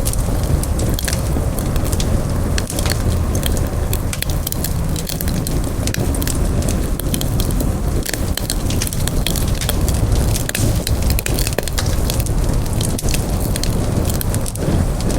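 Wood campfire burning, with frequent sharp crackles and pops scattered over a steady low rush.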